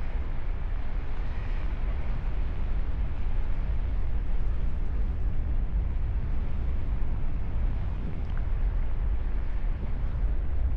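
Wind rushing over the microphone of a camera carried in paragliding flight: a steady noise, heaviest in the low end.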